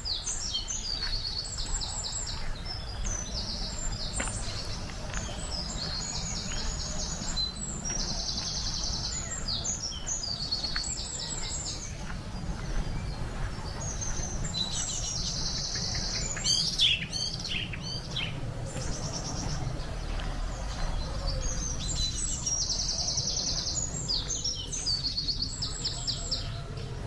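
Songbirds singing, with repeated rapid high trills and chirps and a few quick whistled glides a little past the middle, over a steady low rumble of wind.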